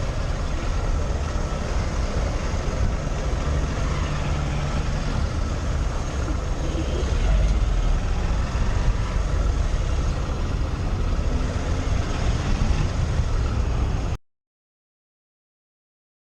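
Motorcycle riding through traffic: steady wind and road noise with engine rumble and passing vehicles. It cuts off abruptly to silence about 14 seconds in.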